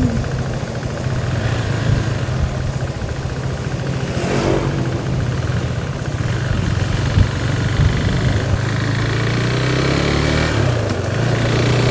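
Motorcycle engine running steadily under way, over a constant rush of wind and road noise; near the end the engine note dips and then rises again.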